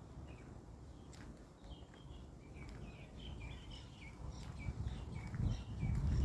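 Small birds chirping: a quick run of short, high chirps from about two seconds in, over a low rumble that grows louder near the end.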